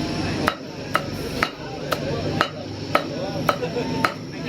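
A cleaver chopping meat on a chopping board, in an even rhythm of sharp strokes about twice a second.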